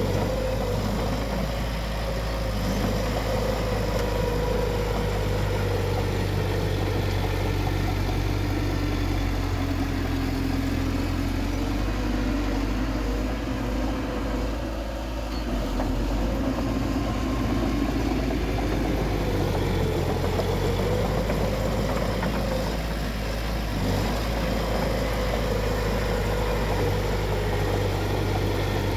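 Bulldozer's diesel engine running steadily under load. Its pitch sags and dips in the middle and then rises back.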